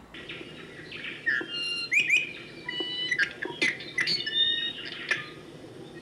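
Birds chirping and singing: a string of short, clear whistled notes mixed with quick rising chirps.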